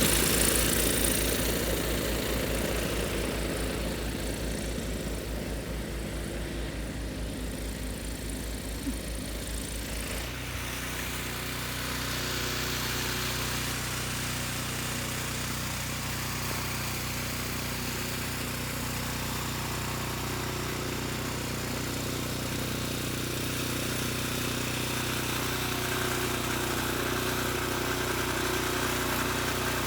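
An engine running steadily at idle; its note changes about ten seconds in and then stays even.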